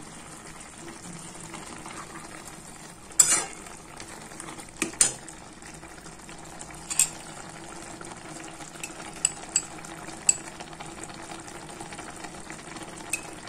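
Fish, onion and garlic frying in a wet mixture in a metal kadai with a steady soft sizzle. A metal spatula scrapes and knocks against the pan a few times, loudest about 3 and 5 seconds in.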